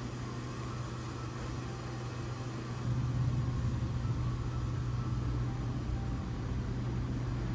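Steady low hum and rumble inside a passenger train car, growing louder about three seconds in.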